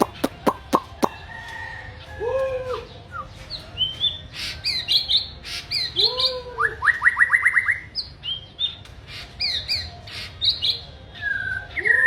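A songbird singing a varied song of whistled notes, with a few sharp clicks in the first second and a fast run of rising notes about seven seconds in.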